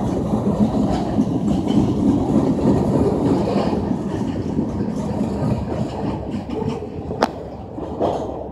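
Train rolling past, a steady noise that eases a little toward the end, with one sharp click about seven seconds in.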